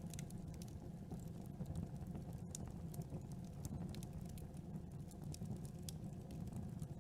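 Campfire burning, with many small, irregular crackles and pops over a steady low rumble of the flames.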